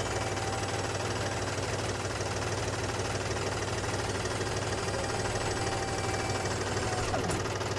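Homemade mini tractor running steadily with an even, idling drone.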